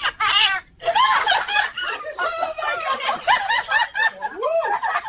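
High-pitched laughter in quick, repeated giggling bursts.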